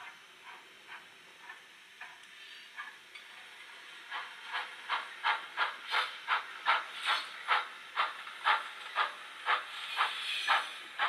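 Factory sound decoder in a 00-gauge Rapido Hunslet 0-6-0 saddle tank model playing steam-locomotive exhaust chuffs through the model's small speaker, about two to three beats a second. The chuffs are soft at first and grow louder about four seconds in.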